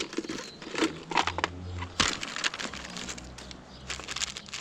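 Hands rummaging through discarded items in a bin: rustling and crinkling with many quick clicks and knocks of small objects being handled.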